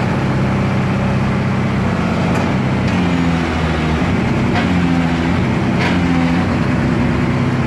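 Backhoe loader's diesel engine running loud and steady, its pitch stepping up and down several times as the engine speed changes.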